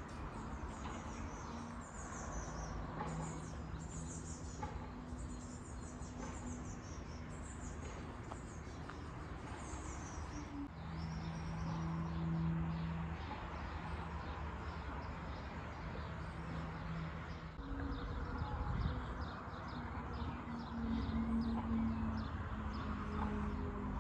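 Birds singing outdoors: a short high falling phrase repeated about once a second, fading out after about ten seconds. Under it runs a low drone whose pitch shifts every second or two.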